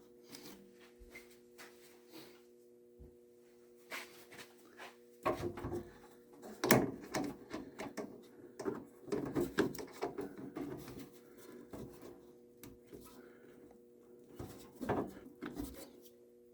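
Hands working inside an opened tankless water heater: a run of clicks, knocks and rattles of parts and wiring being handled, busiest from about five to eleven seconds in and again briefly near the end, over a faint steady hum.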